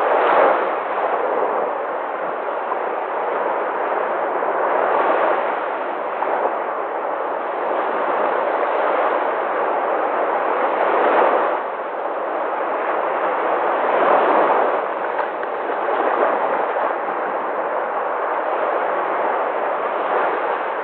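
Sea waves breaking, a continuous rushing wash that swells every few seconds as each wave crashes, sounding somewhat muffled.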